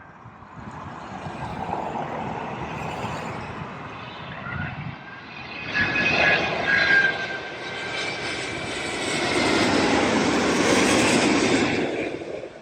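Airbus A380 jet engines roaring as the airliner comes in to land, building in two swells with a steady high whine running through the middle, then cutting off abruptly near the end.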